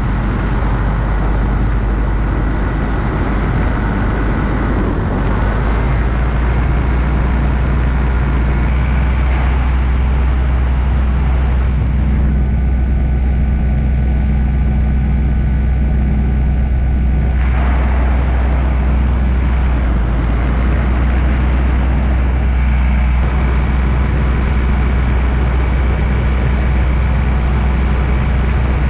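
Paramotor's backpack engine running steadily under power, a constant drone with rushing wind over it.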